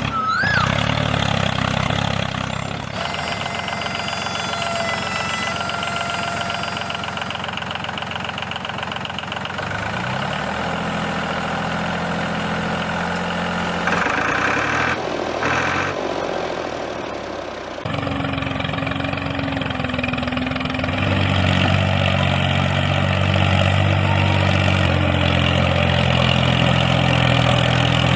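Mini tractor's small engine running, mostly idling with some changes in speed, broken by a few abrupt cuts.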